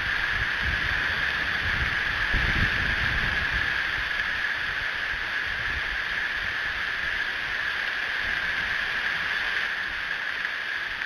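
Strong wind gusting on an outdoor microphone: a low, buffeting rumble that eases after about four seconds, over a steady hiss.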